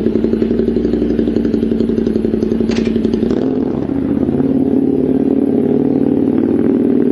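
A motor vehicle's engine running close by with a steady pulsing note, which shifts in pitch about halfway through.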